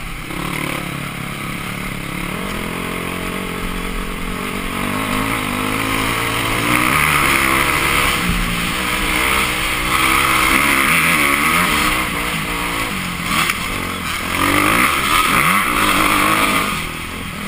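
Dirt bike engine being ridden hard, the revs climbing and dropping again and again, heard from an onboard camera with wind rushing over the microphone. It grows louder about a third of the way in.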